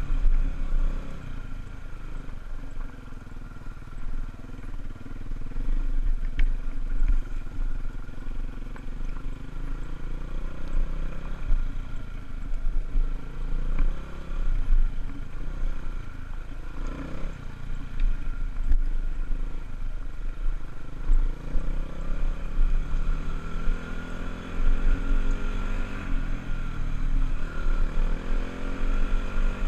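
Honda dirt bike engine running while being ridden, its pitch rising and falling with the throttle. It climbs in a rising rev near the end.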